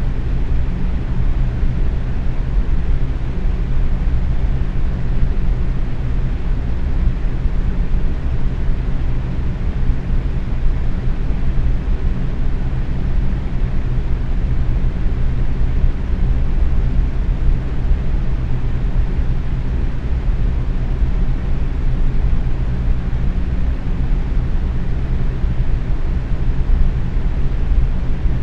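Box fan running steadily at medium speed: a constant low whoosh of moving air with a faint motor hum underneath.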